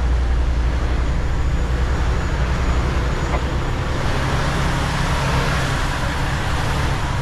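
Semi-truck running down the road: a steady low engine drone under a broad hiss of tyre and road noise, the hiss growing louder about four seconds in.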